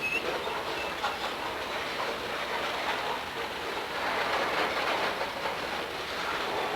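Freight train rolling past on the rails, wheels clattering over the track joints, with a brief high wheel squeal at the start and fainter ones about a second in.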